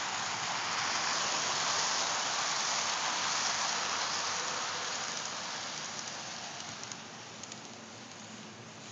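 HO-scale Atlas Dash 8-40CW model diesel locomotive and train rolling along the track: a steady rushing hiss of wheels and motor that fades gradually over the last few seconds, with a few faint ticks.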